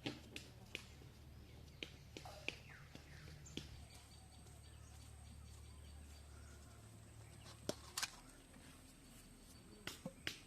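Scattered sharp clicks and knocks, about a dozen, over a quiet steady low hum, with the loudest near the end. A faint thin high steady tone comes in a few seconds in.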